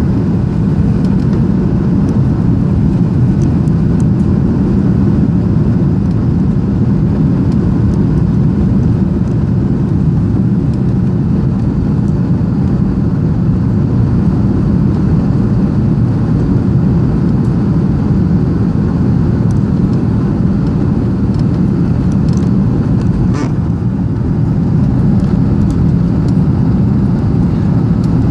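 Steady engine and airflow noise inside the cabin of a Boeing 737-800 with its CFM56 engines, deep and even, with a couple of faint clicks about two thirds of the way through.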